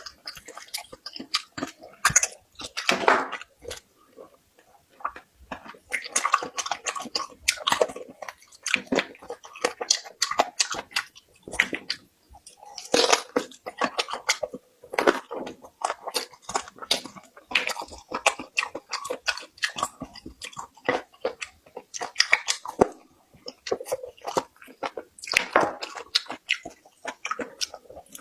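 Pig's trotters being chewed and bitten close to the microphone: a steady, irregular run of short clicks and mouth sounds with brief pauses.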